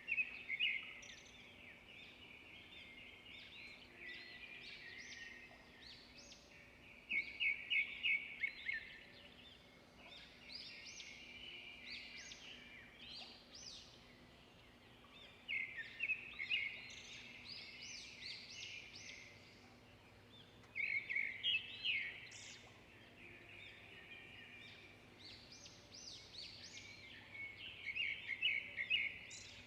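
Small songbirds chirping and singing, several calls overlapping, in bursts every few seconds with rapid trilled phrases.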